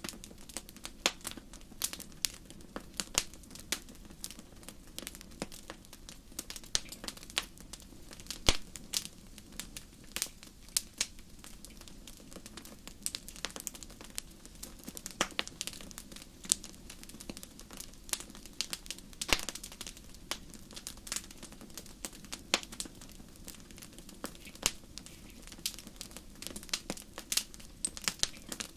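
Wood fire crackling in a fireplace: irregular sharp snaps and pops, several a second, over a low steady hiss of burning.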